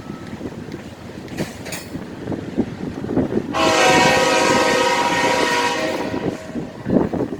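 Locomotive air horn sounding one long chord, about three seconds, starting suddenly about halfway through. Under it runs the rumble and clatter of train wheels on the rails, with a few knocks near the end.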